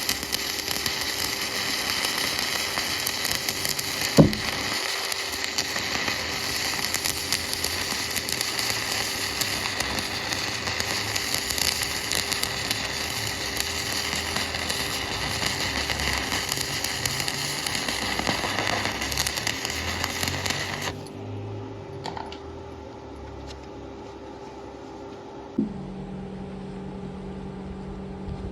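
Stick (shielded metal arc) welding arc crackling steadily as a bead is run on round bars, with one sharp snap about four seconds in. The arc cuts off abruptly about 21 seconds in, leaving a low steady hum, and a click near the end starts a deeper hum.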